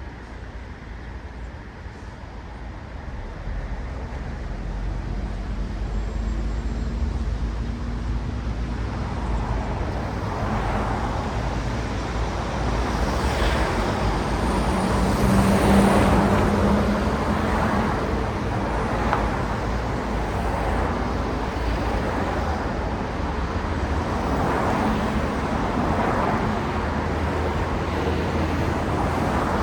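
Road traffic with cars passing one after another in repeated swells of tyre and engine noise over a low rumble. The traffic grows louder after the first few seconds, and the loudest pass, about halfway through, carries a steady engine hum.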